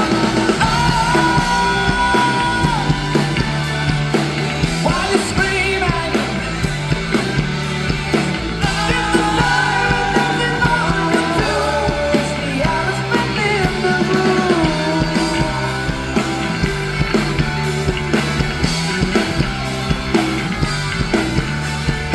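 Rock band playing live at full volume, with singing over guitars and a steady drum beat.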